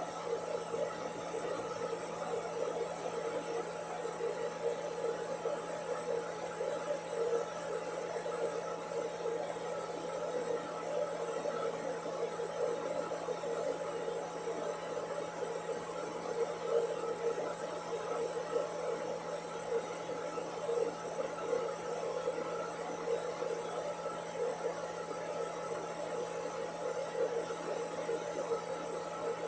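Hair dryer running steadily: a constant whooshing noise with a low hum and a few steady tones, unchanged throughout.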